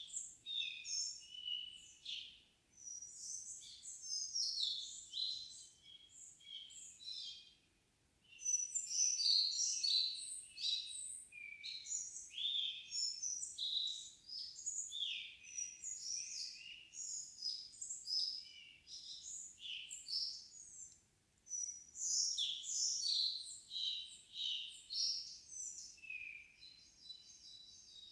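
Evening songbirds singing in long runs of quick, high, varied notes, with short pauses about eight seconds in and again about twenty-one seconds in.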